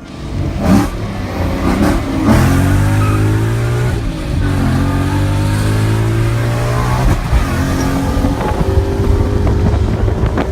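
Modified performance car engine accelerating hard, its pitch climbing steadily and dropping back at gear changes about four and seven seconds in.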